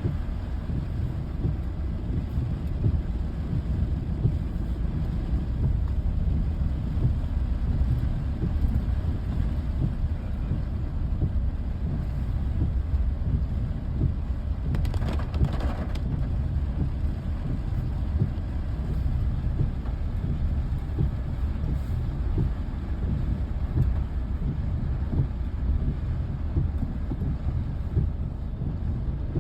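Steady low rumble of a vehicle in motion, with a brief hiss about halfway through.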